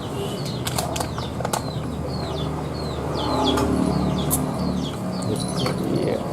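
Birds chirping: many short, high chirps that each fall in pitch, several a second. Scattered sharp clicks and a low hum sit underneath.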